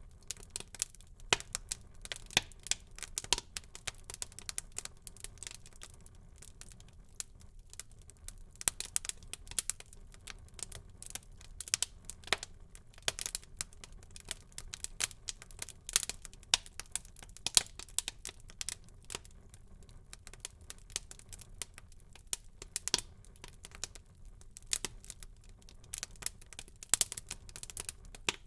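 Wood fire burning in a fireplace, crackling with frequent irregular sharp pops and snaps over a low steady hiss.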